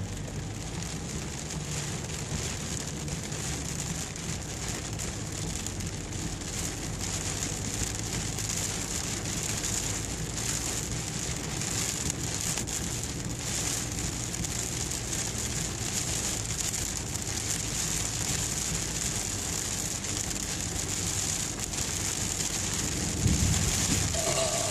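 Heavy rain pelting the car's roof and windshield, heard from inside the cabin, over a steady low drone. A brief low rumble comes near the end.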